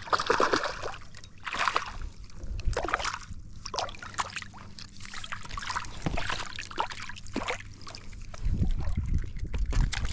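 Irregular water splashing and trickling as a small hooked jack is brought in and thrashes at the surface beside a kayak. A low rumble comes in near the end.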